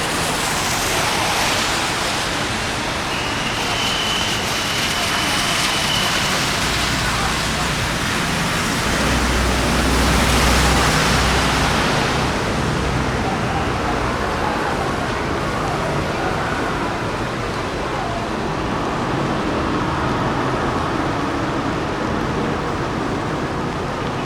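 Rain and traffic on a wet city street: a steady hiss of rain and tyres on wet road, with a vehicle passing with a low rumble about ten seconds in. A brief thin high tone sounds for a few seconds near the start.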